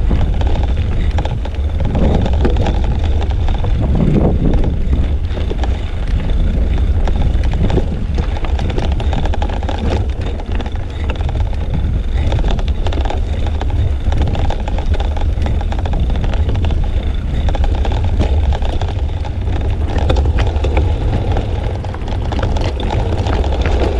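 Wind buffeting a GoPro's microphone while riding a bicycle: a steady, loud, low rumble of wind noise mixed with riding noise.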